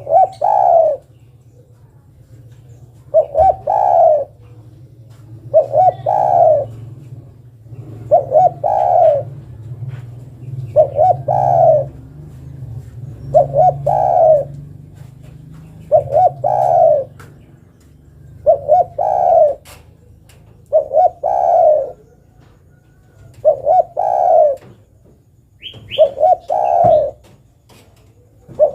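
Spotted dove (derkuku) cooing: a short phrase of two or three coos about every two and a half seconds, about a dozen in all, over a low steady hum. The call is given as a female calling to a male.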